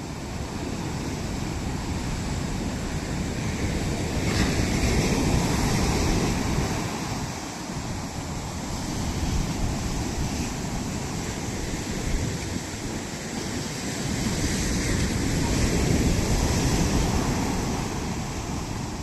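Ocean waves breaking and washing on the shore in a continuous roar that swells and eases in slow surges, with wind buffeting the microphone.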